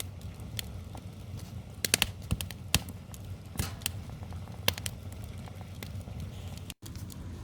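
Wood fire crackling, with irregular sharp snaps and pops over a low steady rumble.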